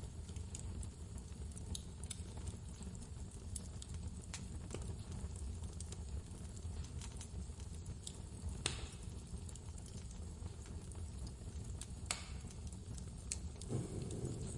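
Wood fire crackling in a fireplace, scattered small pops with two sharper ones a few seconds apart past the middle, over a steady low rumble of blizzard wind.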